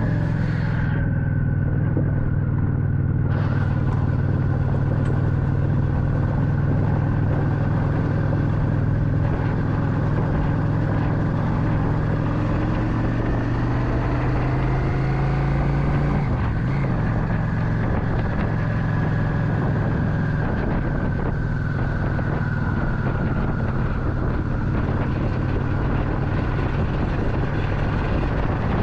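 Motorcycle engine running at a steady speed while riding, with road and wind noise; the engine note shifts slightly about halfway through.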